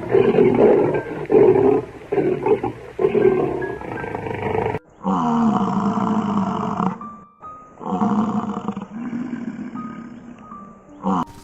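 An animal calling loudly: a run of short, rough bursts, then two longer, drawn-out calls about five and eight seconds in, over light background music.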